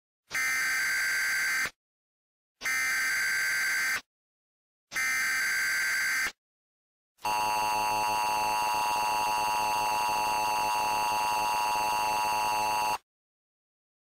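Emergency Alert System SAME header: three short bursts of data tones, each about a second and a half long, followed by the two-tone EAS attention signal sounding steadily for about six seconds.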